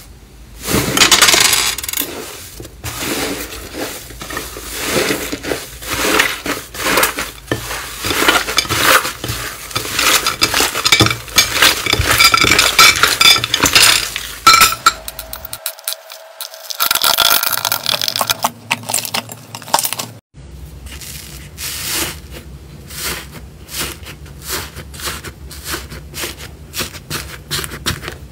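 Slime being squeezed, pressed and poked by hand, making dense crisp clicks, crackles and pops. The sound changes abruptly at two cuts between clips, about halfway through and again about two-thirds of the way through.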